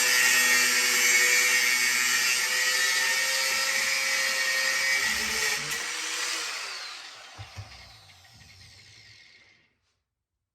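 Power cutting tool trimming the end of a steel springer fork leg. It runs steadily, then is released and winds down, its pitch falling until it stops, with two light knocks as it spins down.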